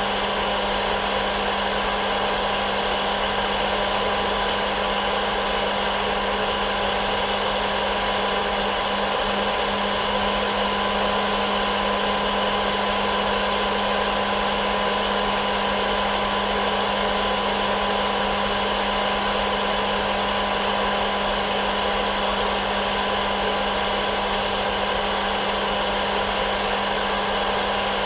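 Hair dryer running steadily: a continuous blowing noise with a low motor hum and a couple of steady whining tones, used as white noise for sleep.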